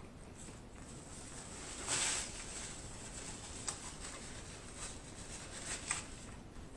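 Faint close-miked chewing of food with the mouth closed: soft, scattered wet clicks, with a short soft whoosh of breath about two seconds in.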